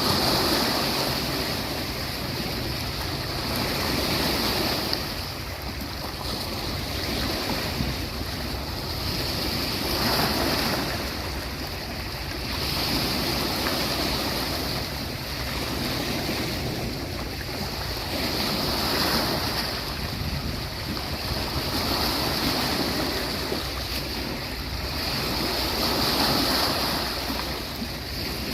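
Sea waves breaking and washing onto a beach, a continuous surf rush that swells and eases every few seconds.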